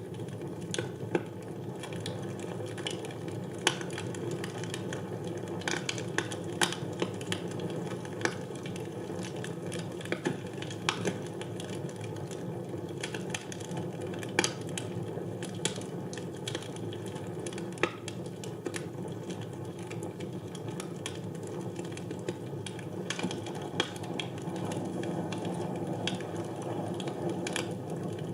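Fire burning in a fireplace: a steady low rush of flame with sharp, irregular crackles and pops from the burning wood.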